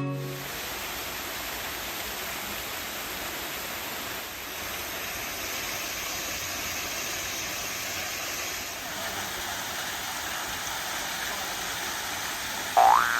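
Flowing water rushing steadily. Just before the end, a short rising sound-effect tone begins.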